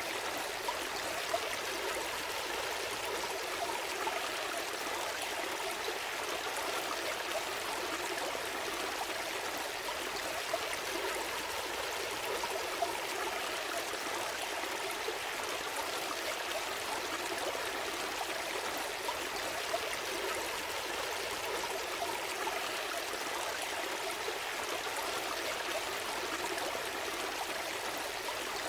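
A small stream flowing and gurgling steadily over stones, with occasional brief splashes.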